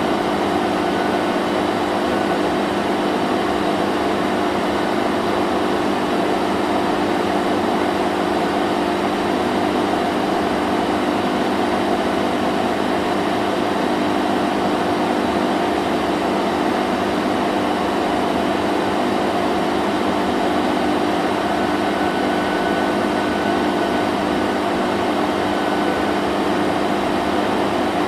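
Vacuum cleaner running steadily: an even motor drone with a steady hum over its airflow hiss.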